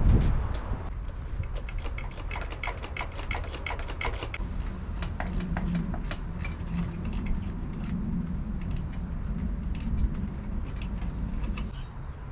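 Many quick, irregular metallic clicks and taps of hand tools on motorbike parts, as a new ignition barrel is fitted.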